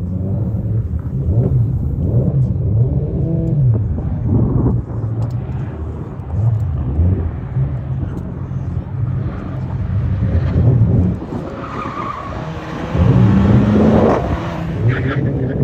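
Audi TT's engine revving up and dropping back again and again as it is driven hard through a tight cone slalom, with a brief tyre squeal in a turn. It gets louder, with a rising whine, near the end as the car passes close.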